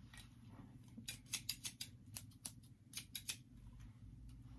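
A pair of craft scissors snipping, blades opened and closed over and over in a run of quick faint clicks, about three or four a second, that stops about three and a half seconds in.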